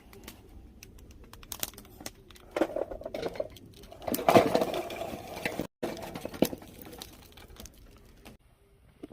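Wood fire with binchotan charcoal crackling: irregular sharp clicks and pops, with a louder burst of crackling and crunching about four to five seconds in that cuts off abruptly.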